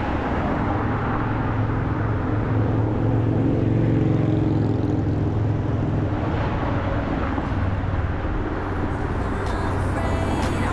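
Street traffic heard from the roadside: a motor vehicle's engine hums steadily, swelling to its loudest about four seconds in as it passes. Music begins to come in near the end.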